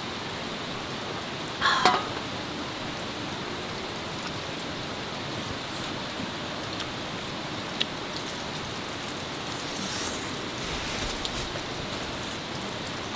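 Steady rain falling, with one brief sharp sound about two seconds in that is the loudest moment.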